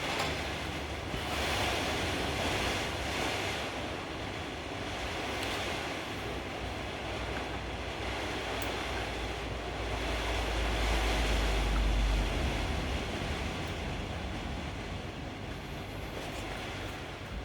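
Steady hiss of rain falling outside, with a low rumble that swells about ten seconds in and fades again.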